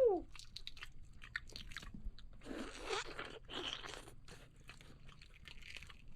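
Someone biting and chewing crunchy food close to the microphone: a string of small crunches and clicks, heaviest about two and a half to four seconds in.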